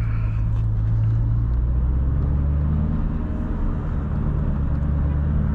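A 2003 Mustang Cobra's supercharged 4.6-litre V8 running with a steady low drone. Its note drops to a lower pitch about a second and a half in, then holds steady.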